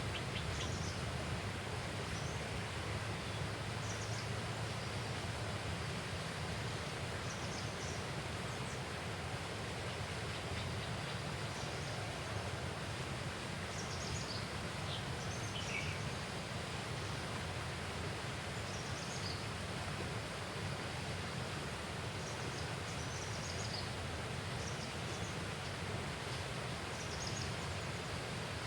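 Outdoor ambience: a steady noise bed with short, high bird chirps every second or two, and one call near the middle sliding downward.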